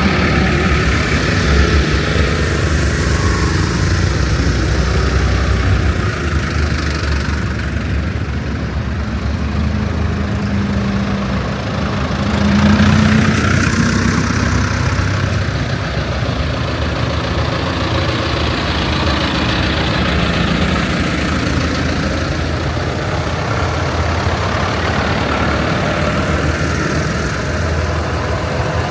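Tractor engines running as the tractors drive past, a steady low rumble that swells louder about thirteen seconds in.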